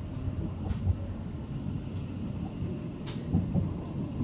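Class 700 Desiro City electric train heard from inside its first-class saloon while running: a steady low rumble, with a brief sharp sound about a second in and another about three seconds in.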